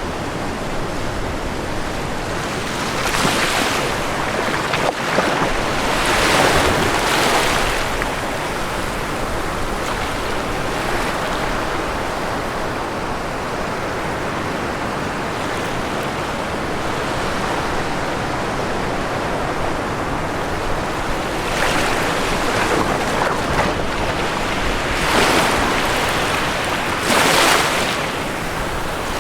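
Ocean waves breaking and washing on a shore over a steady rush of surf, with several louder wave crashes: one around three to eight seconds in and two more near the end.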